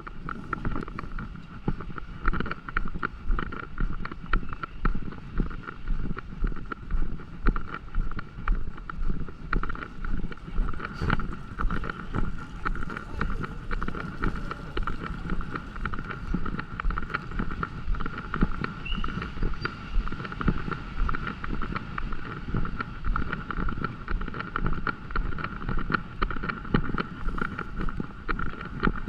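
Footsteps of someone walking at a steady pace, about two steps a second, over a steady high hum.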